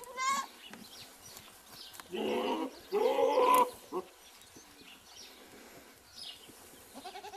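Goats bleating: a short wavering bleat at the start, then two loud, longer bleats one after the other around two to three and a half seconds in, and a fainter bleat near the end.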